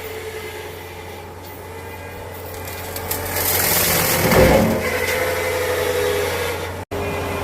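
Tractor engine running with a brush hog rotary cutter working through woody brush, the sound swelling about halfway through. There is a momentary gap near the end.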